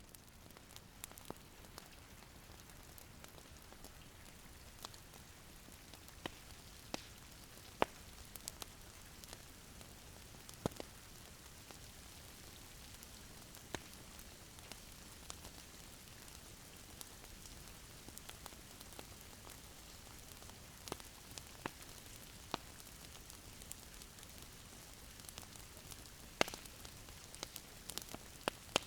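Wood fire crackling: a faint steady hiss with irregular sharp pops and snaps.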